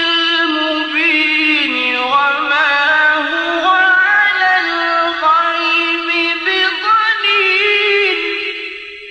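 A male Qur'an reciter chanting in the melodic tajweed style, drawing out long held notes with wavering ornaments. His voice fades away near the end as the verse closes.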